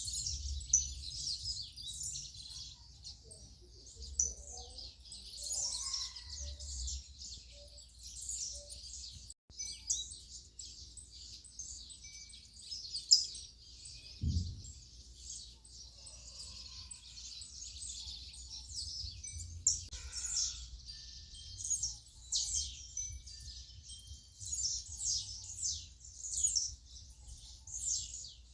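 A chorus of many small birds chirping and calling at once, dense and unbroken, over a faint low rumble. There is one short thump about fourteen seconds in.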